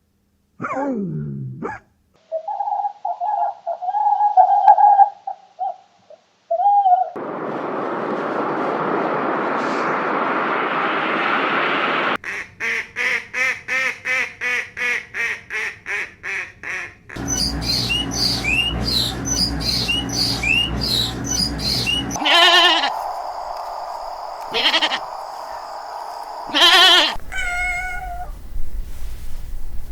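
A string of different farm animal calls cut one after another: a falling call, a long held call, a stretch of hissing noise, a quick even run of about four calls a second, then chirping and more calls.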